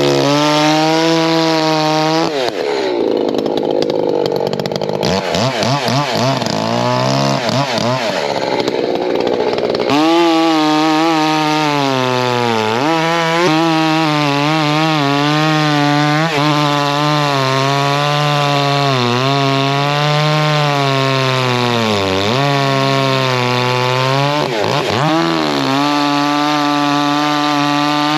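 Echo two-stroke chainsaw at full throttle, cutting oak logs into firewood rounds. The engine's pitch sags several times as the chain bites into the wood, then climbs back as it cuts free.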